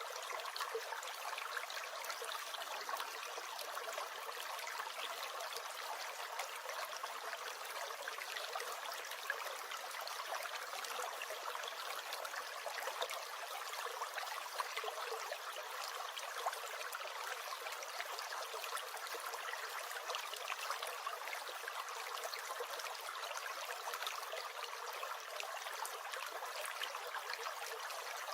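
Small brook gurgling and trickling steadily, an even rush of water with little deep rumble.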